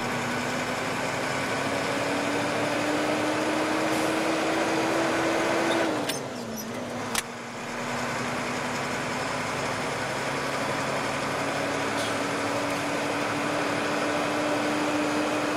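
Car engine and road noise while driving. The engine note climbs slowly, then drops and quietens about six seconds in, followed by a single click a second later. After that the note climbs slowly again.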